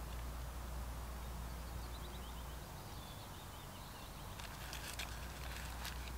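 Outdoor ambience: a small bird singing a quick series of short, high notes over a steady low rumble, with a few short rustles a little before the end.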